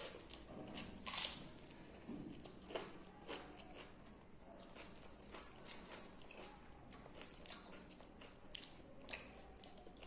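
Close-miked eating: chewing and crunching of food, with one loud crunchy bite about a second in and a string of smaller crunches and wet mouth clicks after it.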